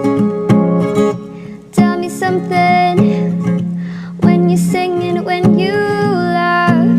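Acoustic guitar strumming chords in a slow song, with a solo voice singing long held notes over it.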